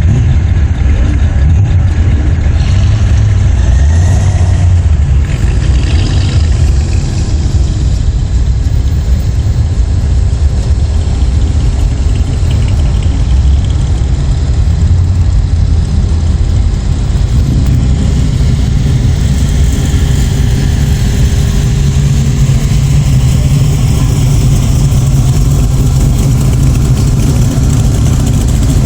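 Car engines in a slow-moving parade of hot rods and classic cars, running at low speed with a steady loud low rumble; the rumble's pitch shifts about two-thirds of the way through.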